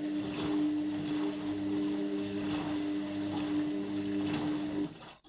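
Indesit MyTime washing machine turning its drum slowly during a bedding rinse, part of its anti-allergy wash: a steady motor hum over water and laundry sloshing in the drum, which swells every second or so. The motor stops suddenly near the end.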